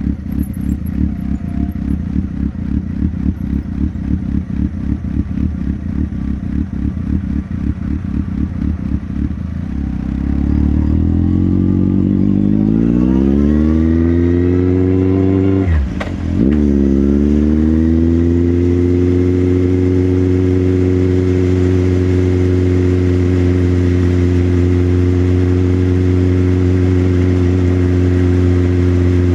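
Motorcycle engine idling with an even, lumpy pulse, then pulling away, its note rising steadily under acceleration. About sixteen seconds in it dips briefly on a gear change, then settles into a steady cruising drone.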